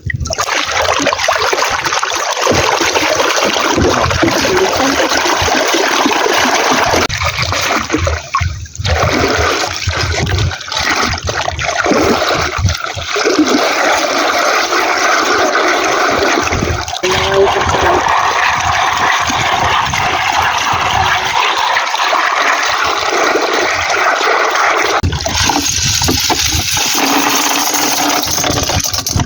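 Loud rushing and splashing of seawater, with a few short breaks about eight seconds in.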